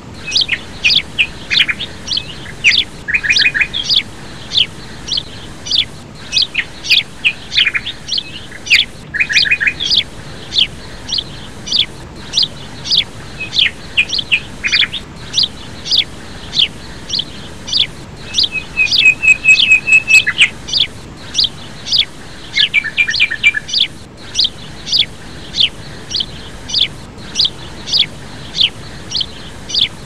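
A small bird chirping over and over, sharp falling notes about two a second, broken by a few short trills and one longer held note, over the steady rush of a waterfall.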